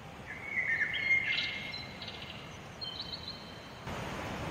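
A bird calling: a run of whistled notes and a quick trill in the first second and a half, then a shorter high call about three seconds in, over a steady background hiss.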